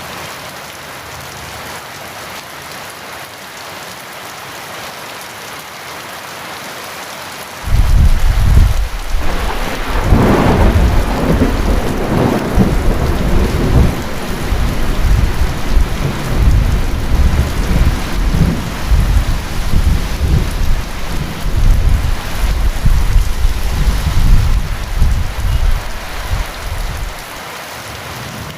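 Heavy rain falling steadily. About eight seconds in, a thunderclap breaks suddenly into a loud, deep rumble, sharpest a couple of seconds later, which goes on for nearly twenty seconds before dying back to the rain alone.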